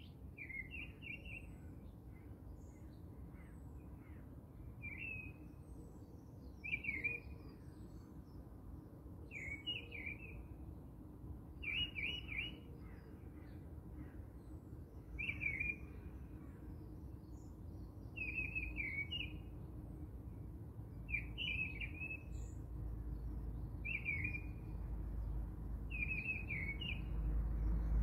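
A songbird singing a short chirping phrase over and over, about every two to three seconds, over a low steady rumble that grows louder near the end.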